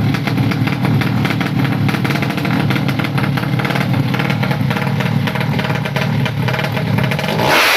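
Drag-racing underbone motorcycle engine running with rapid, rough firing pulses. About seven and a half seconds in, it jumps sharply to high revs.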